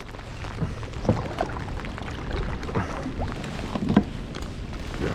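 Irregular knocks and handling noises on a fishing kayak, over a low steady rumble.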